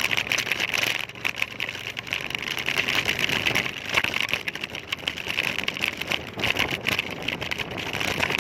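Road and traffic noise heard while riding a two-wheeler, with wind buffeting the microphone in rapid irregular gusts.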